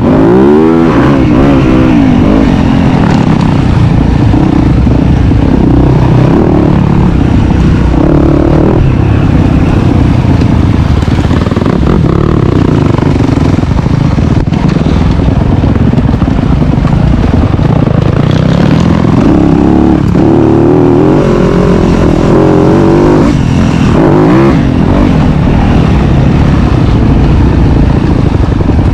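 Dirt bike engine running hard, its revs climbing and dropping back several times, with sharp rises in pitch near the start and again about two-thirds of the way through.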